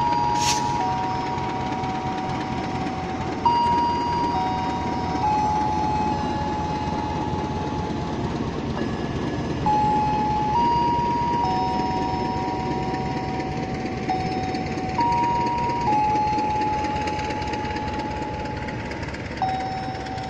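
Passenger coaches of a departing train rolling slowly past on the station track with a steady rumble. A short hiss comes about half a second in. Over it plays a slow, simple melody of held electronic tones that change note every second or two.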